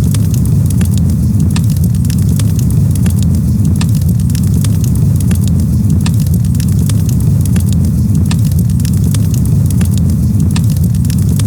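Campfire crackling, with many small sharp pops over a steady low rumble.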